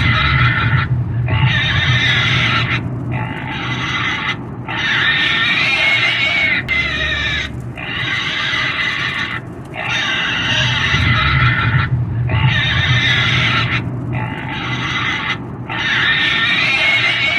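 A pig squealing over and over, loud, each squeal lasting about one to two seconds with short breaks between.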